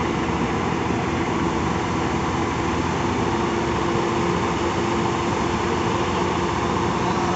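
A vehicle engine running steadily under a constant wash of outdoor noise, with a steady hum that comes in about two seconds in.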